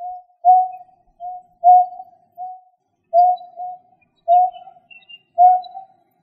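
A bird's call: a short, low, hooting note repeated about once a second, each loud note followed by a softer, shorter one.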